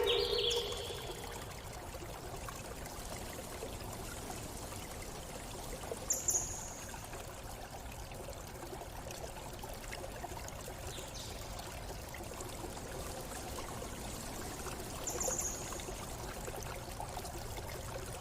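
Water running steadily, as from a stream in a forest, with a few short, high bird calls over it: one at the very start, and chirps about 6 and 15 seconds in.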